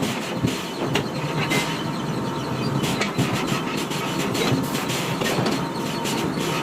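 Heavy forging machinery working hot iron: a steady mechanical din with irregular metallic clanks and knocks.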